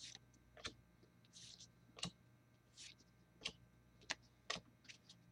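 Trading cards being handled and flipped through by hand: faint, irregular clicks of card stock, about one every half second to second, with a couple of soft sliding swishes.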